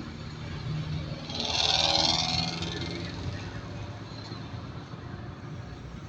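Bus running with a steady low engine rumble; about a second and a half in, a loud hiss swells up and dies away over roughly a second and a half.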